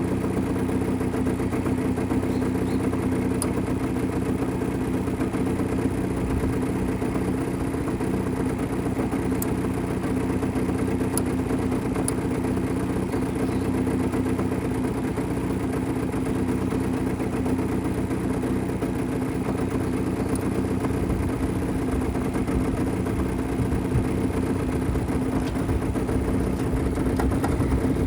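1970 Mitsubishi Minica 360 GSS's 360 cc two-stroke twin, with twin Solex carburettors, running steadily at an even, idle-like speed.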